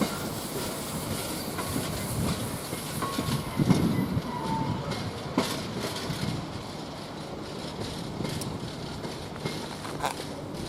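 Container freight wagons rolling past at speed, a steady rumble with wheels clacking over rail joints and a few faint squeals.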